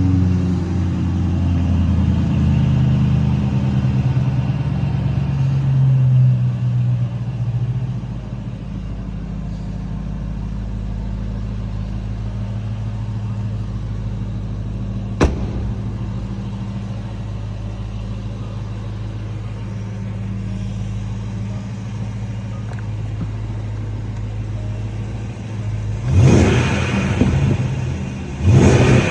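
Range Rover's 5.0-litre supercharged V8 running through its exhaust: it idles a little higher at first and settles to a steady idle about seven seconds in. A single sharp click comes about halfway through, and near the end the engine is blipped twice with short throttle revs.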